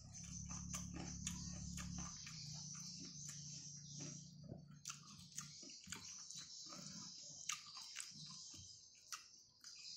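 Close-up chewing of a mouthful of rice and vegetables: lip smacks and wet mouth clicks, many short clicks throughout, over a steady high hiss. A low hum sounds for about the first two seconds.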